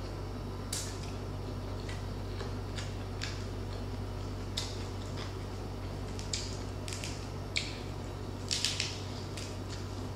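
Chewing and crunching of crispy pata (deep-fried pork knuckle) skin: scattered sharp crackles, with a quick cluster of them about eight and a half seconds in, over a steady low hum.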